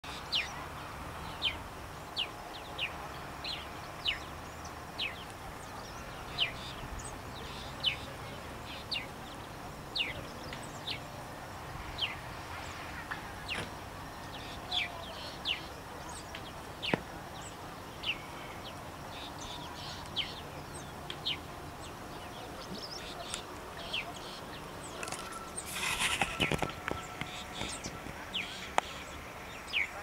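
Birds chirping: short, high chirps that slide downward, repeated roughly once a second. Near the end there is a brief, louder noisy burst.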